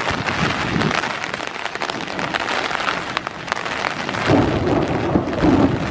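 Heavy downpour, with raindrops striking the camera and its microphone as many sharp ticks. A deeper rumble joins about four seconds in.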